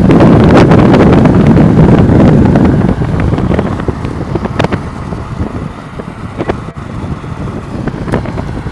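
Strong storm wind buffeting the microphone as a loud rumble, easing after about three seconds, with a few scattered knocks.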